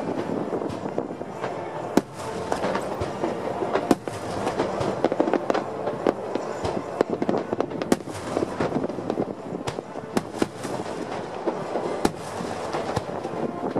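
Aerial fireworks bursting in a rapid, continuous barrage: many sharp bangs over dense crackling, with louder single booms standing out about every two seconds.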